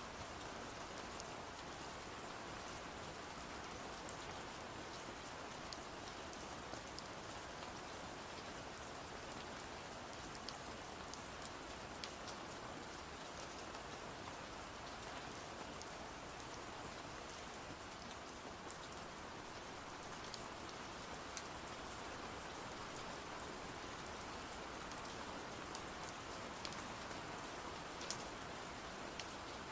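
Steady rain, an even hiss with scattered sharp ticks over it.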